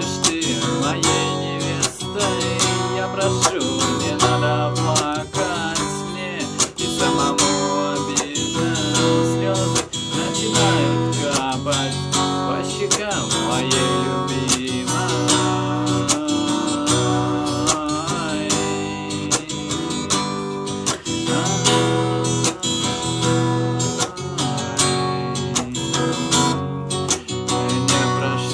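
Instrumental break in a song: strummed acoustic guitar with a wavering melody line over it, and no singing.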